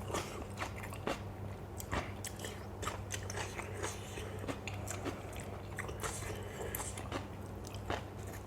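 A person chewing and crunching a mouthful of som tum with lotus stems close to the microphone, with irregular crisp bites over a steady low hum.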